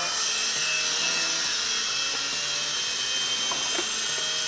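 Blade mCX2 micro coaxial helicopter's small electric rotor motors whining steadily in hover, after spooling up just before.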